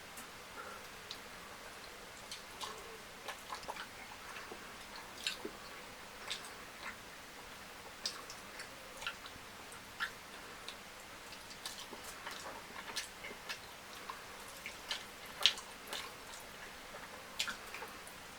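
Close-up eating sounds: irregular wet clicks and smacks of chewing a meal of fried fish and fufu with curry, a few a second, one sharper smack about fifteen seconds in.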